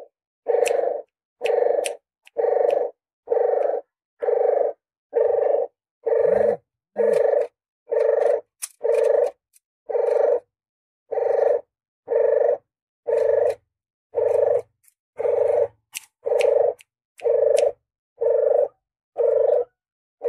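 Recorded puter geni dove calling over and over, short calls about once a second with silent gaps between. It is a lure call played to draw in doves for hunting.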